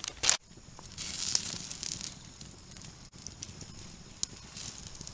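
Wood campfire crackling faintly, with a few small pops.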